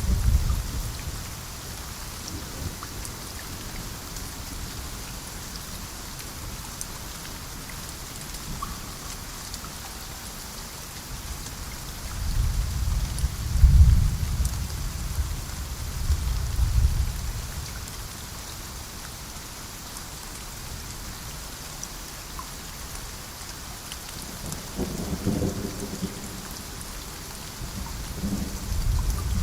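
Steady rain falling, with rolling thunder: a rumble fading out at the start, a long roll about halfway through that swells twice, a shorter rumble a few seconds before the end, and another building at the very end.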